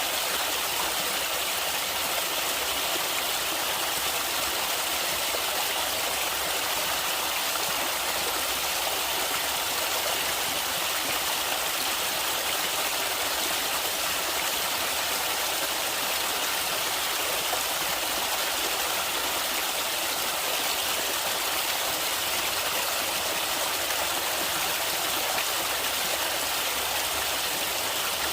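Flowing river water: a steady, even rush and hiss with little low rumble, unchanging throughout.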